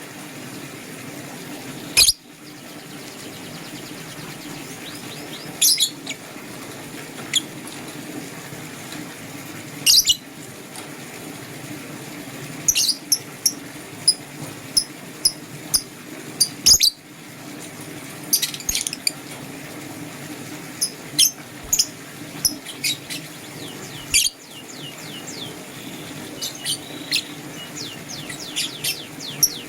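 Lovebirds chirping: short high chirps scattered throughout, some in quick runs of several. A few sharp clicks stand out over a steady low hum.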